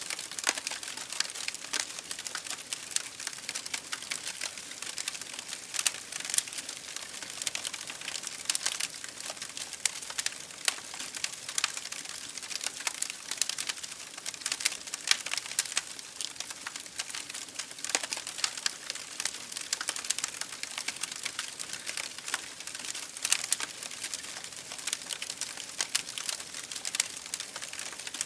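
Open wood fire in a fireplace crackling and popping: many sharp irregular snaps over a steady hiss.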